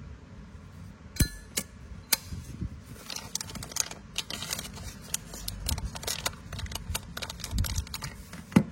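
Metal Zippo lighters being handled, giving a scatter of small metallic clicks and clinks, with a sharper click about a second in and another near the end.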